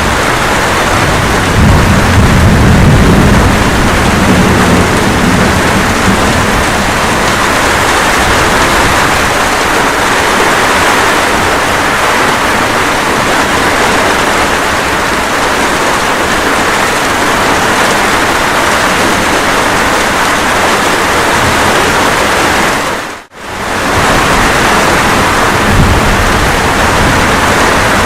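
Steady light rain with a low thunder rumble in the first few seconds. About 23 seconds in, the sound briefly drops away and comes straight back.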